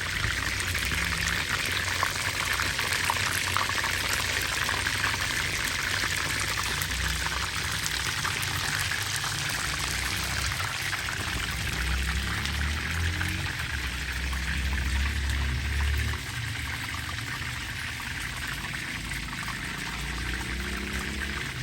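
Heavy rain with water steadily pouring and running, a low rumble underneath, easing slightly about two-thirds of the way through.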